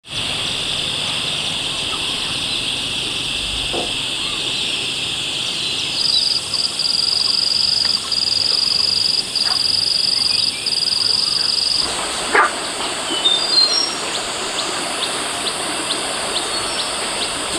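Rural outdoor ambience of insects and birds: a steady high insect drone, joined about six seconds in by a higher, steadier buzz broken by short gaps. Near the end a bird calls a quick series of falling notes, just after a single sharp knock.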